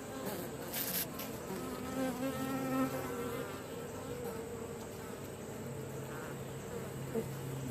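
Honey bees buzzing around an open hive, several bees' drones overlapping and shifting slightly in pitch, with a brief click about a second in.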